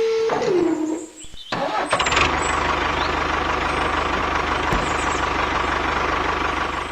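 A steady whine drops in pitch and stops just after the start; about two seconds in, an engine starts and then runs steadily with a fast, even low beat.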